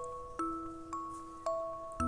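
Soft background music: single bell-like mallet notes struck about twice a second, each ringing on into the next.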